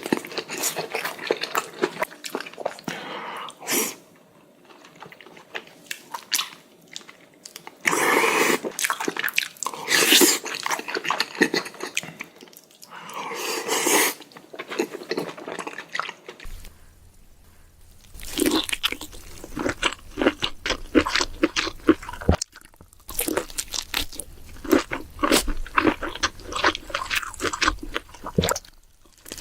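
Close-miked mukbang eating: big bites and chewing with crunchy, wet mouth sounds. About halfway through, the sound switches to quicker, crisper chewing clicks.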